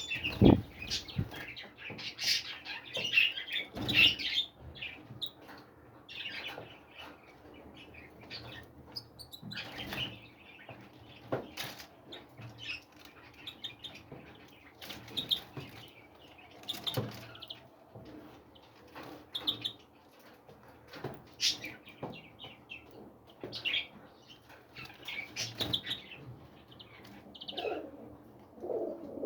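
Small birds chirping in many short calls, with wings fluttering and scattered light clicks and knocks. A dove starts cooing near the end.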